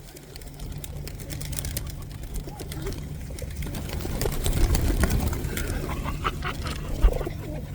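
A flock of pigeons crowding in: a busy clatter of wingbeats and scuffling, with a sharp thump about seven seconds in.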